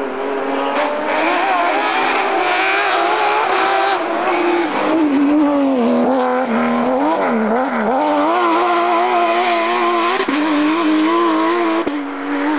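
Rally car engine revving hard under acceleration, its pitch climbing and dropping back in steps at gear changes. In the middle the revs swing rapidly up and down several times, then the engine holds a high, steady note with brief lifts near the end.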